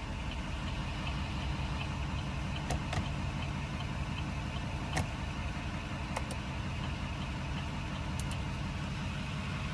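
2020 Chevrolet Silverado 4500HD's 6.6-litre Duramax V8 turbo-diesel idling steadily, with a few faint clicks here and there.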